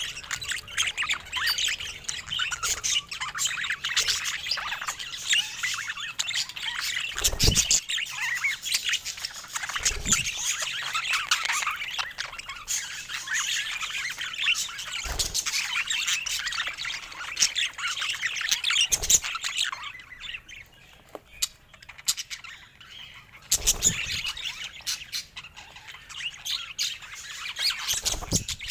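Budgies chirping and warbling continuously, with short squawks mixed in and a few soft thumps. The chirping thins out for a few seconds about two-thirds of the way through.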